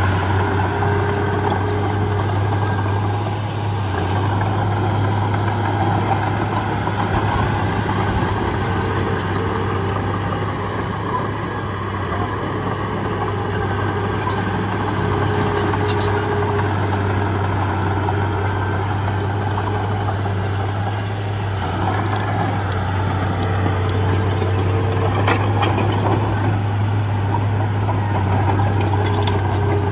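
Heavy diesel engine of earthmoving equipment running steadily at constant speed, with a low, even drone and a few faint clicks.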